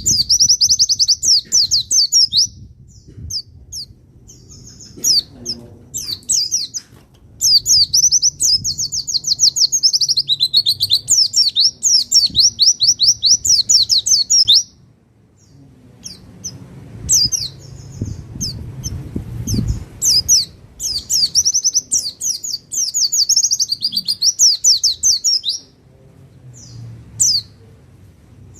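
Pleci (white-eye) singing long, fast chattering phrases of rapid high notes, several seconds each, with short chirps in the gaps between phrases.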